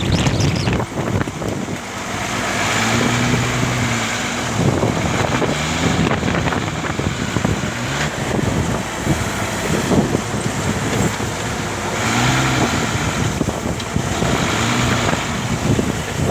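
Leyland truck engine running under way, its pitch rising and falling several times, with wind noise on the microphone.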